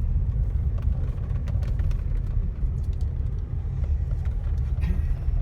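Car driving, a low steady rumble of engine and road noise.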